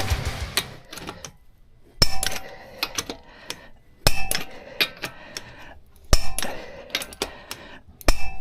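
Sharp metallic clanks about every two seconds, four in all, each followed by lighter clinks and rattles with a faint ring.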